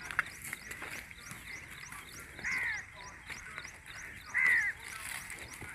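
A bird calling twice, each call a short arching note, about two and a half and four and a half seconds in, over a faint, rapid, high-pitched ticking.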